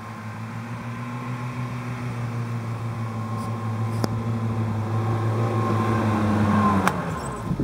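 Land Rover engine running at a steady pitch, growing steadily louder for about seven seconds, then falling away after a sharp click near the end.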